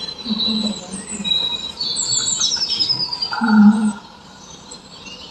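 Birds chirping and twittering in quick rising and falling notes, with a few short low calls mixed in, the loudest about three and a half seconds in; it grows quieter near the end.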